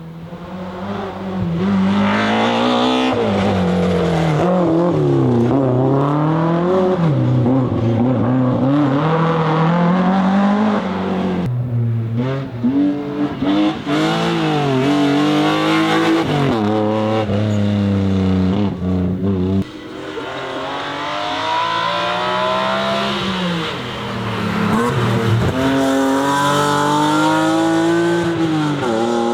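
BMW E30 M3's S14 four-cylinder engine under hard acceleration, revs climbing and dropping again and again through gear changes. The sound cuts abruptly twice to another run.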